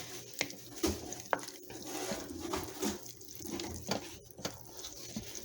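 Light kitchen handling sounds: a scattered series of soft clicks and knocks, about a dozen over a few seconds.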